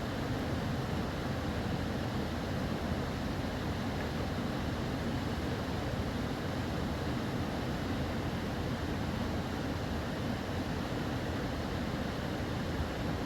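Steady rushing roar of a fast mountain river, heaviest in the low end and unbroken throughout.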